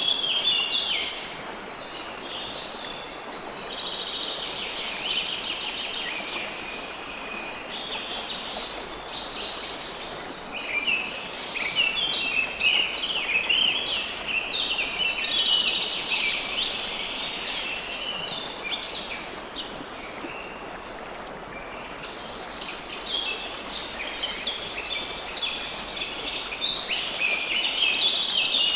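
Several songbirds singing and calling in quick chirps and trills that come in waves, over a steady hiss of water.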